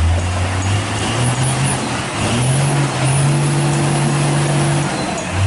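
Truck engine running under load, its pitch climbing about two seconds in and holding, over a wash of mechanical and road noise.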